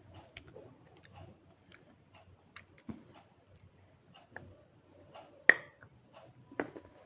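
Mouth crunching and chewing dry clay: sparse small clicks and crunches, with one sharp loud crack about five and a half seconds in.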